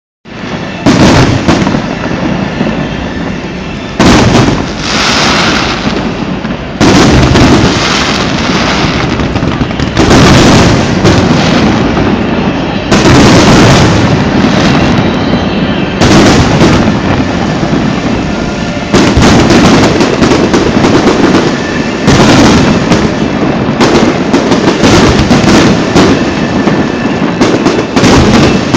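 Aerial fireworks display: shells bursting in loud booms about every three seconds, with dense crackling and rumbling between the bursts.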